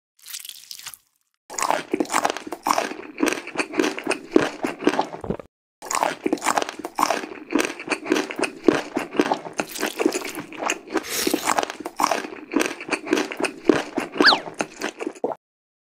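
Close-up crunchy eating: rapid crisp crunches of teeth biting and chewing crispy food, in two long runs with a short break about halfway through. A brief falling squeak comes near the end.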